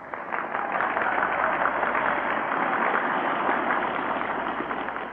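Crowd applauding, building up quickly and fading away near the end.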